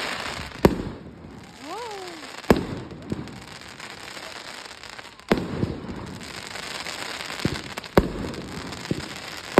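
Fireworks going off at a display: sharp bangs at irregular intervals, four loud ones and a few smaller, with crackling and rumbling between them. A brief whistle-like tone rises and then falls about two seconds in.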